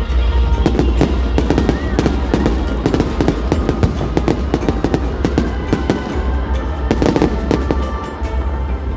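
Aerial fireworks going off in rapid succession: many sharp bangs and crackles close together, with music playing underneath.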